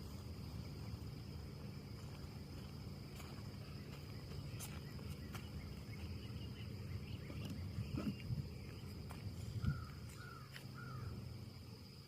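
Outdoor ambience of wind in the trees: a steady low rumble under a constant high insect drone, with scattered clicks and faint chirps. Three short bird calls come close together near the end.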